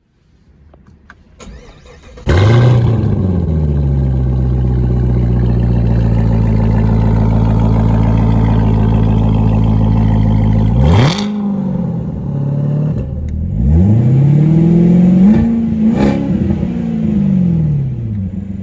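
A 2019 Corvette ZR1's supercharged 6.2-litre LT5 V8 starts about two seconds in with a rev flare that drops back to a steady fast idle. Near the middle it gives a sharp blip, then a run of quick throttle revs, each rising and falling.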